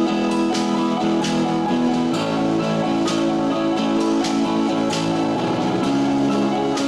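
Live band music led by guitar, with sustained chords over an even beat and a change of chord about five seconds in.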